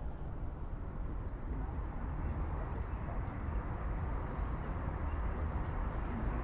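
Steady outdoor background noise with a deep, low rumble and no distinct events.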